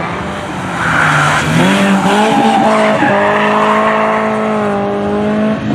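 BMW E30 318iS's 1.8-litre four-cylinder engine revving hard as the car slides sideways: the revs climb about two seconds in, are held high and steady, then drop off near the end. Tyres squeal and scrub on the tarmac.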